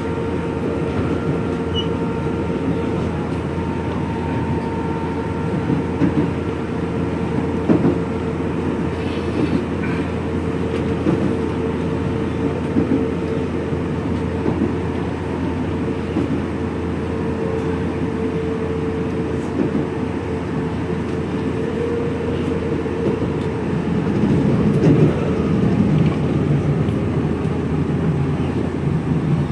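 Cabin running sound of a Nankai 3000 series electric train with electric camshaft resistance control: a steady rolling rumble with a faint steady hum, a few sharp clicks, and a slight swell in level near the end.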